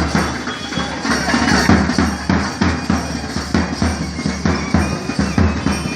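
Temple festival music: drums beating a quick, even rhythm under a held, droning reed wind instrument.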